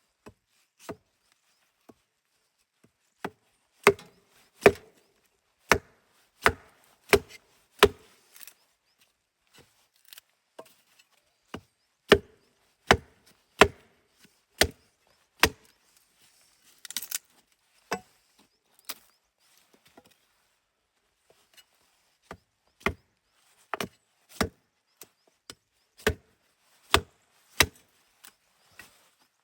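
Wood being chopped with a blade: sharp single strikes into wood in runs of several blows, about two-thirds of a second apart, with short pauses between the runs.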